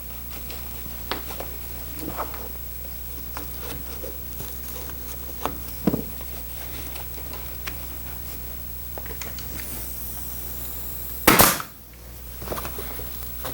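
Scattered light taps and clicks from hand upholstery work on a sofa seat, over a steady low hum. About eleven seconds in comes one loud, sharp burst.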